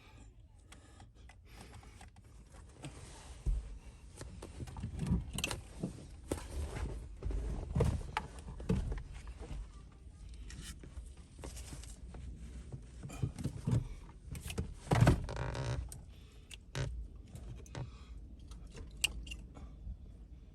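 Hands working on parts inside a car's cabin: irregular clicks, knocks and rattles, with the loudest knock about fifteen seconds in.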